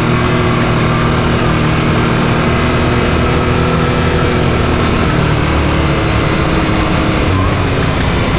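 Can-Am Maverick X3 side-by-side's turbocharged three-cylinder engine running under way at a fairly steady pace, its pitch shifting a little as the throttle changes.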